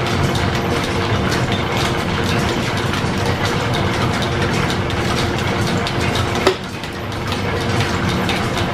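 Shop machinery running with a steady, busy mechanical clatter of rapid clicks. A sharp click comes about six and a half seconds in, after which it is briefly quieter.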